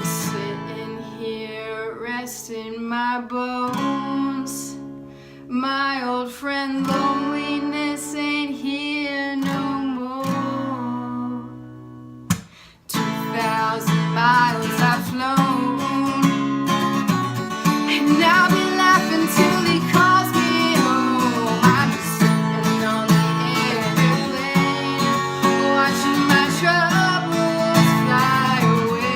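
Acoustic guitar strummed and picked, with a wordless sung melody over the chords. Just before halfway it stops briefly, then comes back fuller and louder.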